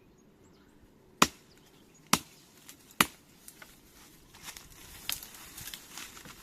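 Three sharp chops of a blade into a small tree, a little under a second apart, followed by lighter knocks and rustling.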